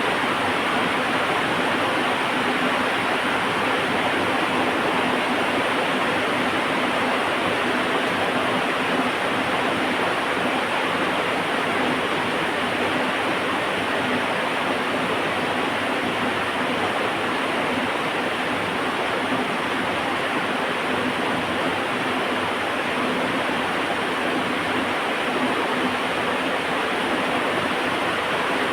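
Heavy rain falling steadily, a dense, even hiss with no breaks or thunder.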